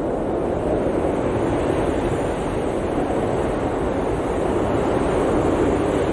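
Blizzard wind blowing hard and steadily, a dense rushing noise that swells a little about five seconds in.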